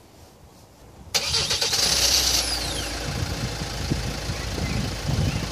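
Hyundai Tucson ix engine started remotely: about a second in the starter cranks it with a high whine that falls away as the engine catches, and the engine then settles into a steady idle.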